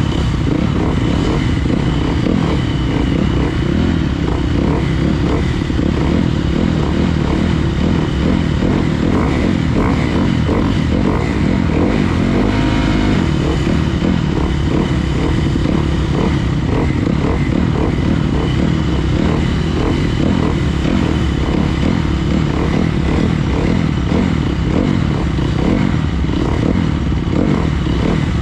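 Honda 250 motocross bike's engine running hard under race riding, its revs rising and falling with the throttle, with a marked change in pitch about halfway through.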